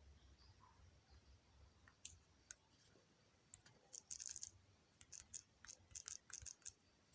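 Faint, quick clicks and taps, a few spaced out at first, then a rapid run of about a dozen in the second half.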